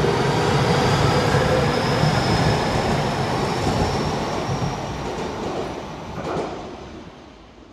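Train running, a dense rolling rumble with a faint high whine that rises slowly in pitch. The sound fades out over the last few seconds.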